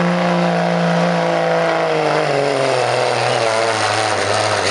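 Dodge Cummins inline-six turbo-diesel pickup engine running hard while pulling the sled. Its note holds steady, then sinks steadily in pitch through the second half as the revs drop.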